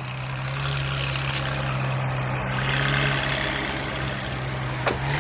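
A car engine idling steadily, with a short sharp click just before the end.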